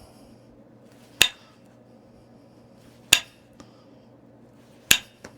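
Flintknapping: three sharp clicks of a tool striking the edge of a stone point being thinned, about two seconds apart, with a fainter tick after the second and third.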